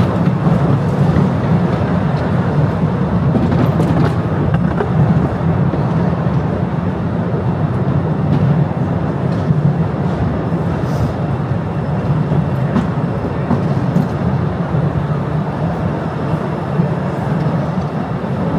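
Postojna Cave's electric tourist train running along its track: a steady low running noise with a few scattered sharp clicks.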